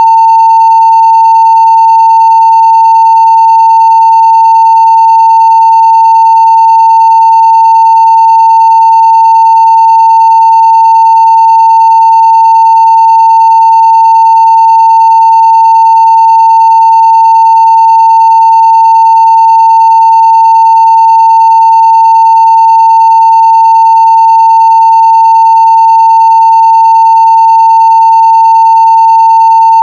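A continuous 900 Hz sine test tone at full-scale level, steady and unchanging, with faint overtones above it.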